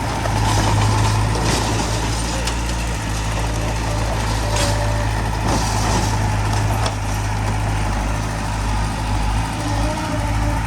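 Heavy diesel engine of earthmoving equipment running steadily, with a few short knocks and clatters scattered through.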